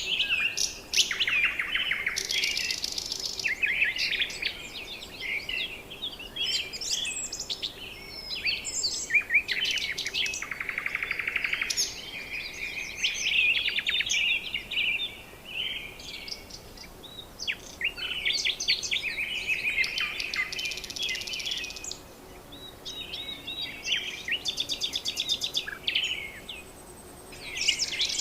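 Several birds chirping and calling over one another, with repeated quick rattling trills among the whistles and chirps.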